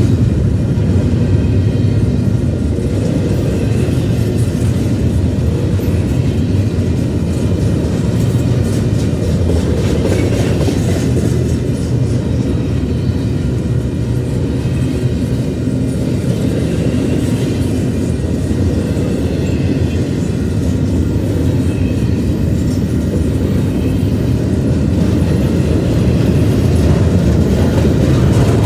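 Cars of a mixed intermodal freight train rolling past at a steady pace: a continuous low rumble of wheels on the rails with light clicking.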